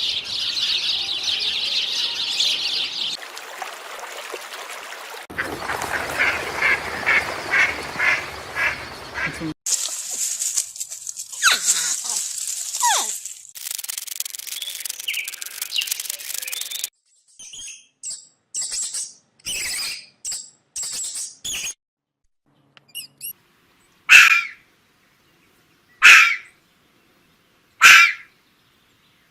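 A string of different animal calls, mostly birds, one clip after another with abrupt cuts, including a run of quick repeated calls and, near the end, three loud single calls about two seconds apart.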